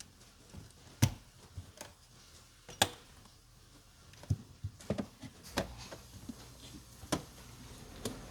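A run of sharp, separate clicks and knocks, the loudest about a second in and again near three seconds in, from tools and parts being handled during work on a car battery.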